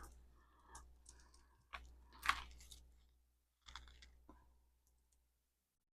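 Faint, scattered clicks and light rustles of a beaded necklace being handled, a few separate small contacts with the loudest about two seconds in.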